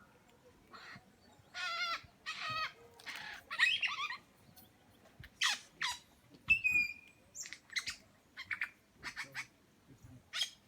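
Superb lyrebird singing a varied mimicry sequence of other birds' calls: harsh buzzy notes first, then sharp falling notes and a short whistle, then a run of quick short calls.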